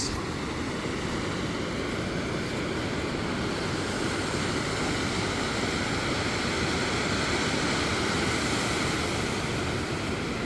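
Steady wash of ocean surf, growing slightly louder around the middle.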